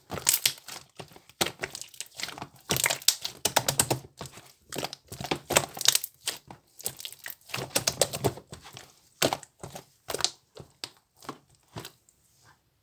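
Irregular crinkling and crackling with scattered clicks and knocks, close to the microphone, thinning out and stopping near the end.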